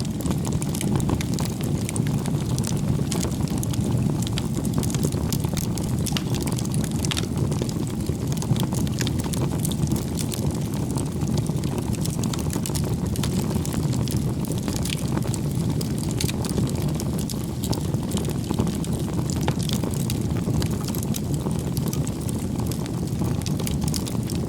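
Firewood bonfire burning: a steady low rush of flames with many small crackles and pops.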